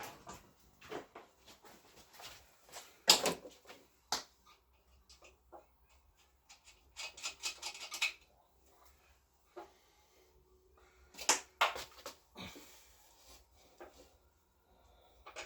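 Rummaging through a box of small parts: scattered clicks and rattles, with a sharp knock about three seconds in and bursts of rattling around seven to eight and eleven to twelve seconds in.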